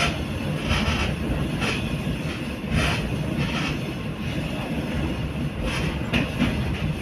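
Passenger train running on rails: a steady low rumble of wheels and carriages, with a brighter rasping sound coming back roughly once a second.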